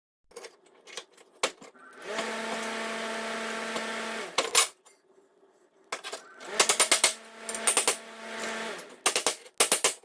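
Hammer blows on a piece of steel being flattened, coming as a single strike and then two quick runs of ringing metallic hits. A steady machine hum runs in between.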